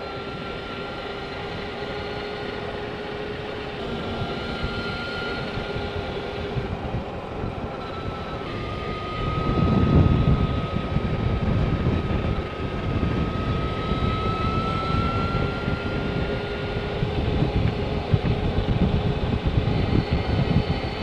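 Energica Experia electric motorcycle riding along: the motor's steady whine, its pitch drifting slightly with speed, over wind rushing across the microphone, which gets louder and gustier about nine seconds in.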